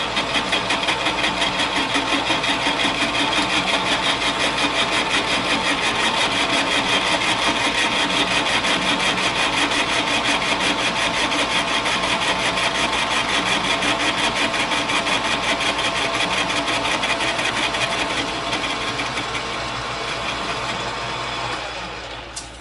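Metal lathe running with a fast, even pulse while taking a light turning cut, about ten thousandths, on the outside diameter of a part. Near the end the machine is switched off and winds down.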